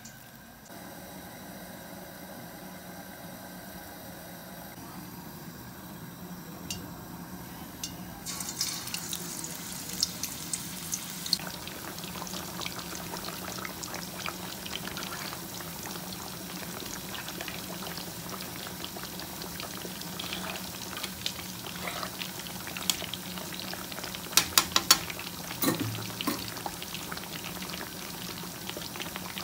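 Meat kebab patties shallow-frying in hot oil in a black pan: a steady crackling sizzle that starts about eight seconds in. Near the end there is a quick run of sharp clicks.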